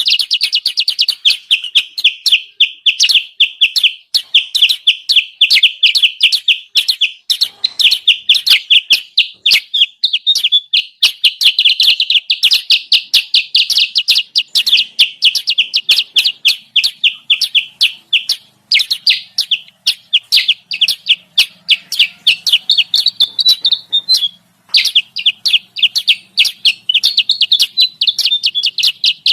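Recorded kutilang sutra call played as a bird-trapping lure: a fast, continuous run of high chirps, several a second, breaking off briefly twice in the second half.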